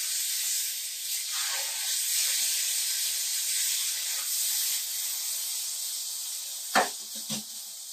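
Tortilla soaked in birria sauce sizzling in a hot nonstick frying pan: a steady hiss that eases a little toward the end. A couple of short knocks sound near the end.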